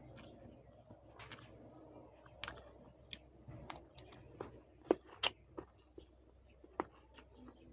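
Crisp green guava being chewed close to the microphone: irregular sharp crunches and mouth clicks, the loudest a little past the middle.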